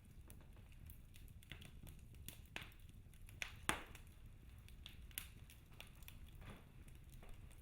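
Wood fire burning in a fireplace, crackling with faint, irregular pops over a low rumble, one sharper pop about halfway through.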